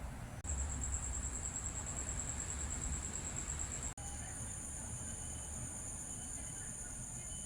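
Outdoor ambience: steady high-pitched insect trilling over a low city rumble. The trill starts abruptly about half a second in and changes to a two-toned high buzz near the four-second mark.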